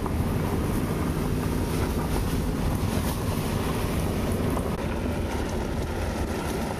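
Steady rumble of a car driving, heard from inside the cabin: engine and road noise with wind rushing past and a few faint ticks.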